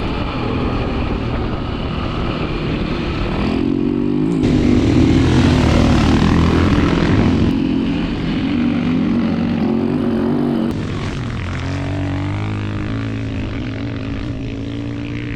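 Dirt bike engines revving hard on a sand track, their pitch rising and falling, loudest in the middle of the stretch.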